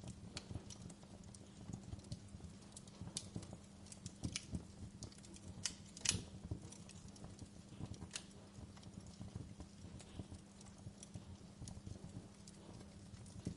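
Wood fire crackling in a fireplace: irregular sharp pops and snaps, the loudest about six seconds in, over a low steady hum.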